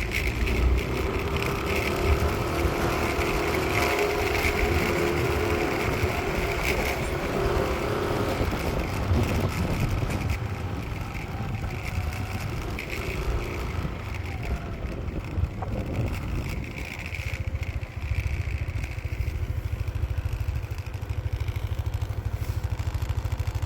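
Low, steady rumble of a passing vehicle, growing louder near the end.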